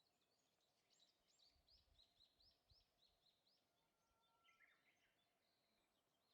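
Faint wild bird calls: a run of short, high chirps at about three a second, followed a little later by a lower, briefer call.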